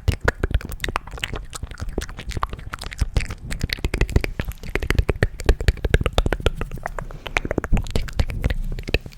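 Close-miked ASMR mouth sounds: a rapid, irregular stream of wet clicks and pops.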